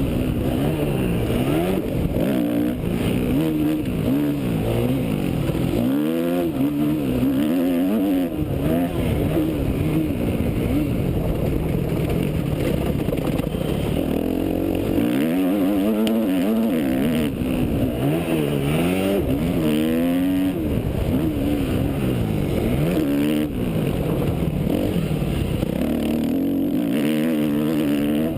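Yamaha YZ250F motocross bike's single-cylinder four-stroke engine revving up and falling off again and again as the bike rides the track, the pitch climbing and dropping every second or two, over a steady hiss.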